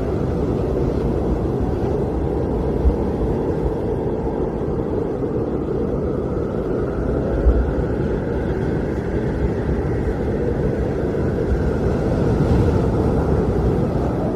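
Blizzard wind blowing steadily: a deep, even rushing with a faint whistling tone that drifts slowly up and down.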